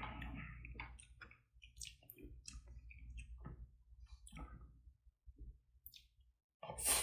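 Close-up eating sounds while eating garlic bossam: a run of small, irregular clicks from mouth and chewing, with a louder noisy burst near the end.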